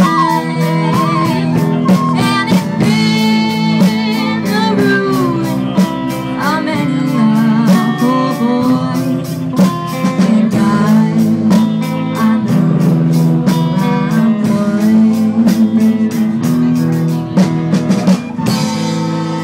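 Live blues-rock band playing: electric lead guitar with bent notes over drums and bass, with singing. Near the end the band thins out and a flute holds a wavering note.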